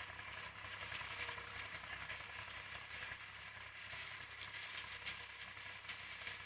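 IMT 539 tractor and its trailed SIP Roto 135 corn harvester running steadily in the field: a constant low hum with a steady high whine over a rushing noise.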